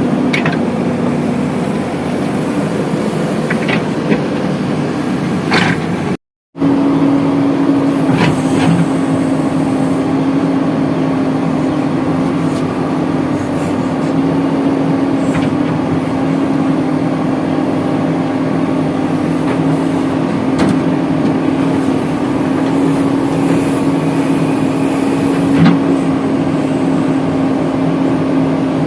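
Diesel engine of a JCB 3DX backhoe loader running steadily at a constant speed, with a few short knocks and clanks from the loading work. The sound drops out briefly about six seconds in.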